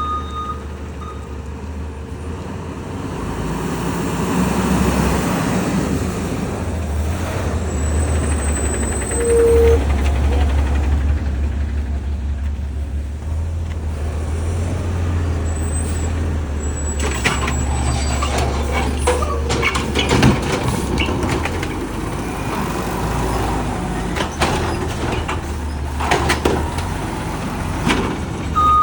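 Garbage truck's diesel engine running steadily, its reversing beeper sounding briefly at the start. Air brake hiss, then repeated metal clanks and bangs through the second half.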